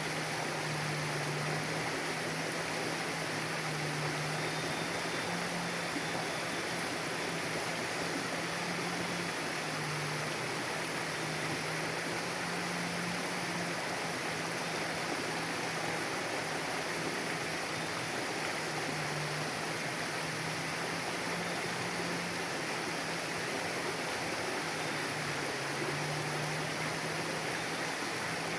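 Mountain river flowing steadily, an even rushing of water with no breaks. A low hum sits underneath, shifting slightly up and down in pitch every second or two.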